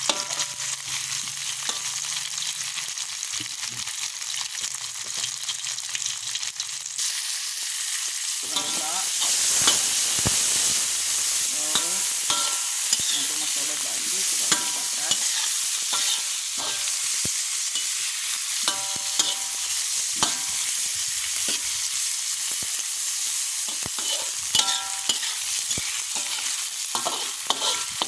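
Radish and aromatics sizzling in a hot pan while a spatula stirs and scrapes, with scattered clicks and short metallic rings. The sizzle grows louder about seven seconds in.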